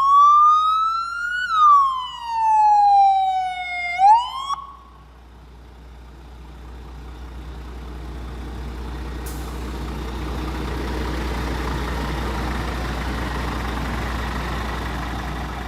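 Electronic siren on a Scania P450 fire rescue truck sounding a slow wail, its tone rising and falling, then cutting off about four and a half seconds in. Afterwards a steady rushing noise with a low rumble slowly builds.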